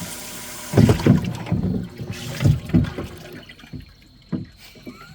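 Water spraying steadily from a small electric live-well aerator pump, then about a second in, loud irregular splashing and sloshing for a few seconds as the water is disturbed, dying down near the end.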